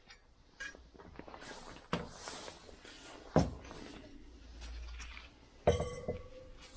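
Workshop handling noises: metal parts and tools knocked and set down on a bench, three sharp clanks among softer scrapes and rustles. The last clank rings briefly.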